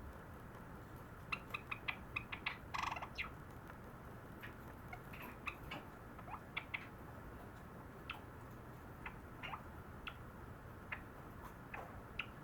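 Java sparrow (sakura colour form) singing softly: a quick run of short clicking notes with one fuller note about a second in, then scattered single short notes.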